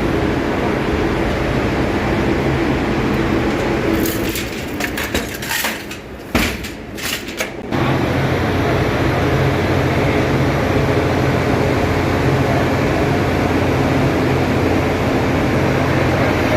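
Steady drone of running machinery in a ship's engine room, with a low hum. Midway it drops for a few seconds and several sharp metallic knocks are heard, then the drone comes back steady.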